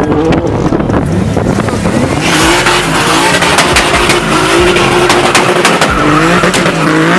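A car engine revving hard, its pitch rising and falling, while its tires squeal and skid, the hiss of spinning rubber growing heavier from about two seconds in, with sharp pops throughout.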